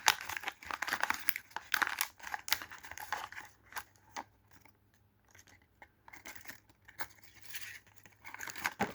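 Ice cream sandwich wrapper being torn open and crinkled by hand: a dense run of crackling rustles that thins out about halfway through and picks up again near the end.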